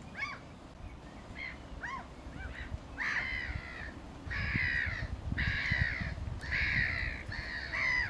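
A bird calling: a few short upward-sliding notes, then from about three seconds in a run of five loud, harsh calls, each nearly a second long, in quick succession.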